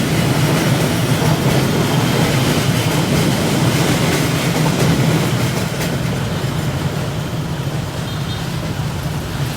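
Train cars rolling past with a steady low rumble of wheels on rail, easing off slightly about six seconds in as the train moves away.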